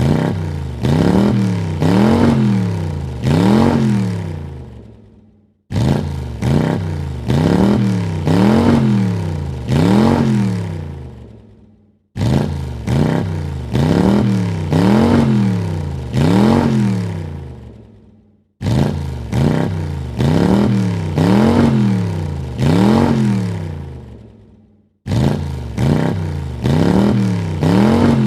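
Car engine revved in quick throttle blips, three or four to a burst, each pitch rising and falling back. The same burst repeats about every six and a half seconds, starting suddenly each time and dying away before the next.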